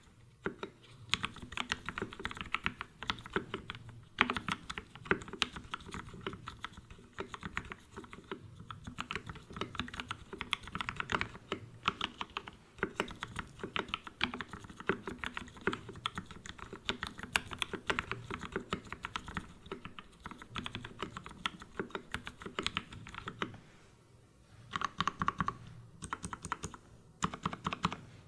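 Typing on a Matrix Abel X mechanical keyboard with an aluminium plate, lubed Gateron Ink Black V1 linear switches and GMK Nautilus keycaps: a steady stream of keystrokes. Near the end there is a brief lull, then a quicker flurry of keypresses.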